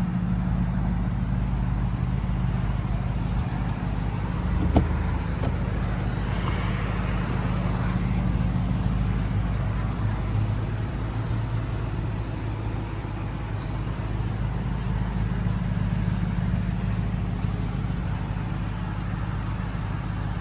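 Porsche Panamera GTS's 4.0-litre twin-turbo V8 idling steadily after a cold start, with a single sharp click about five seconds in.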